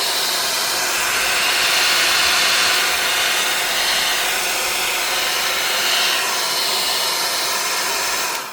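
Hot-air blower (heat gun) running with a steady rushing blow, cutting off right at the end.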